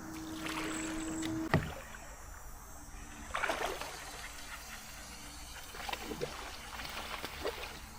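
Water sloshing and splashing around a fishing kayak, with a sharp knock about a second and a half in, where a faint steady hum stops.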